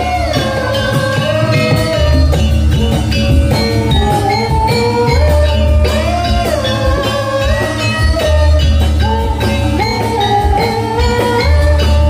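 Live jathilan dance accompaniment in Javanese gamelan style: a melody with sliding, bending pitches over percussion, with a deep low note about every three seconds.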